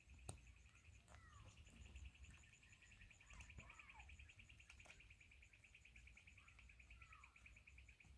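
Faint, steady trilling of crickets, a rapid pulsing chirr, with a few short falling bird chirps now and then.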